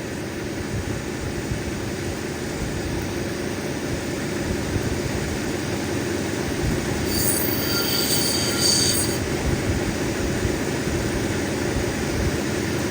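Cabbing machine's grinding wheel running steadily against a Lightning Ridge black opal nobby as the stone is ground deeper. About seven seconds in, a high squeal rises over the grinding for about two seconds.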